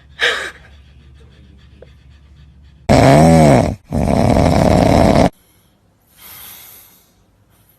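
An animal's loud call, about three seconds in: a pitched sound that rises and falls, then after a short break about a second and a half of harsh, noisy sound. A brief noisy burst comes right at the start, and a fainter one follows later.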